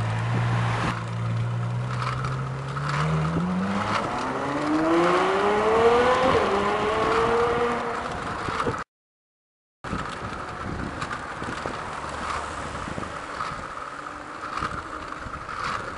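Ferrari F12 berlinetta's V12 engine holds a steady low note for a few seconds, then pulls away, its pitch climbing hard with a brief dip at an upshift about six seconds in. After a cut, a rougher engine and road sound follows.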